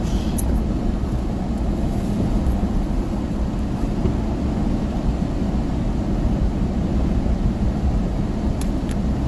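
Steady low road and engine rumble of a moving vehicle, heard from inside the cab, with a few faint clicks near the end.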